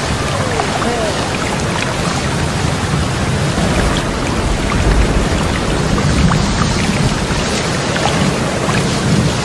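Steady heavy rain with thunder rumbling low, heaviest about halfway through.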